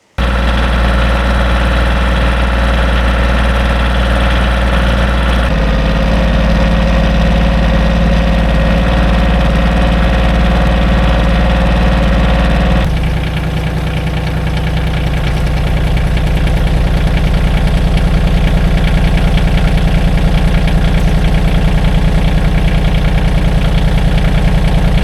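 An engine running steadily, its speed and tone shifting twice, about five seconds in and again near the middle, after which it settles into an even, pulsing idle.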